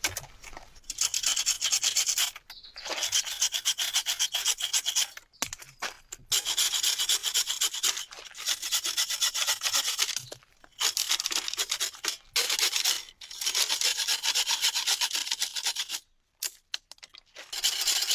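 Dry, rapid rasping, something rubbed hard against a rough surface, in runs of about one to four seconds broken by short pauses.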